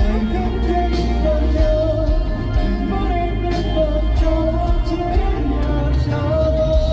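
Live band playing a pop-rock song with sung vocals over a heavy, steady bass line, as heard at a concert.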